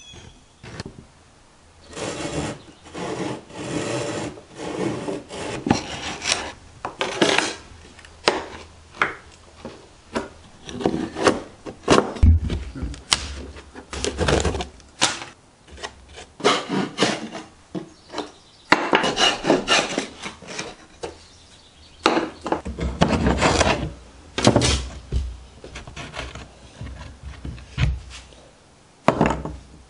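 A hand tool working a strip of pine, in repeated strokes that come in runs of a few seconds with short pauses between.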